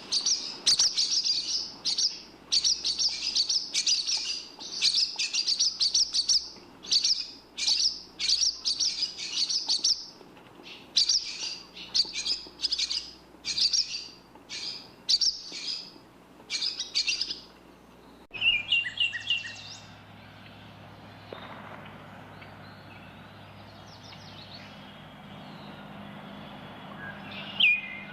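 Songbird chirping in quick high-pitched phrases, about one a second. About eighteen seconds in the recording changes abruptly to a quieter background with a low steady hum and only a few lower chirps, then the chirping picks up again near the end.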